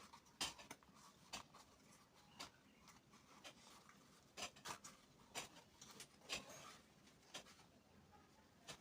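Near silence broken by about ten faint, short taps and clicks at irregular intervals, the sound of small objects being handled.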